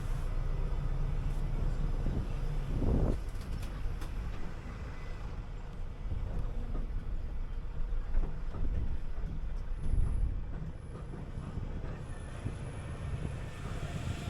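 City bus driving along, with a steady low engine and road rumble heard from on board. A short rising whine comes about three seconds in, and a couple of louder jolts come later.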